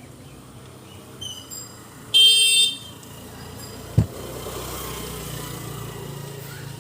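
A vehicle horn honks once, short and high-pitched, about two seconds in, the loudest sound here. A sharp knock follows about four seconds in, then a low steady engine hum.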